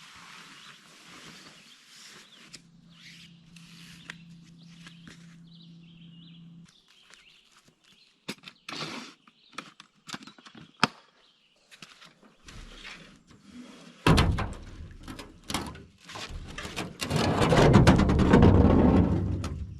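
Camping gear being handled and packed up: scattered knocks, thunks and rustling, with loud rustling and handling noise over the last few seconds. A steady low hum runs for a few seconds near the start.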